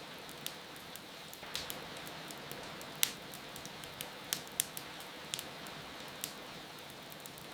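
Wood fire crackling in a fireplace, with irregular sharp pops, the loudest about three seconds in, over a steady hiss of rain.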